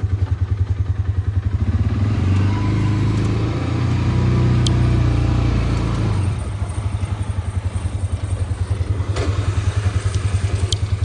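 Polaris Ranger 570 UTV's single-cylinder engine idling with a steady rhythmic chug. Between about two and six seconds in, a louder, smoother engine sound swells and fades, and a couple of sharp clicks come through later.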